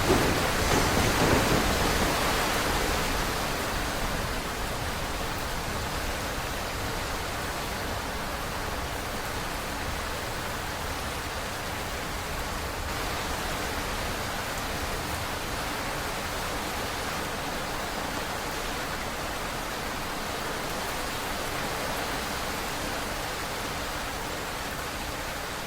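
Subway train noise dying away over the first few seconds, leaving a steady, even hiss of station ambience.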